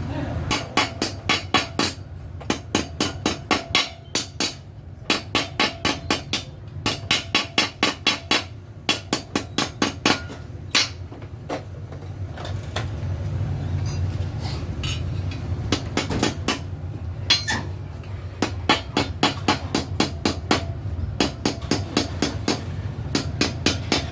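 Hammer blows on sheet metal in quick runs of about five strikes a second, with short pauses between runs: hand-forming the metal of a homemade muffler.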